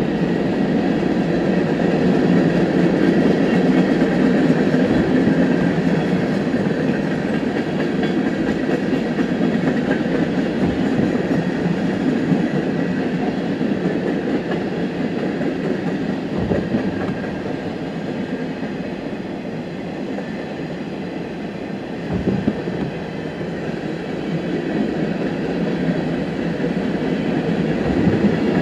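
A train running along the track: a steady rumble with a faint low knock about every six seconds.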